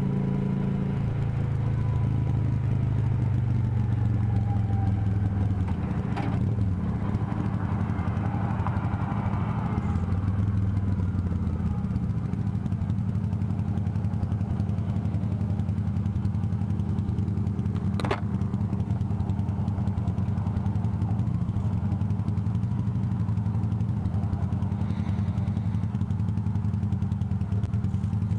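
Motorcycle engine running, its pitch falling over the first few seconds and then holding steady. Two sharp clicks, one about six seconds in and one around eighteen seconds.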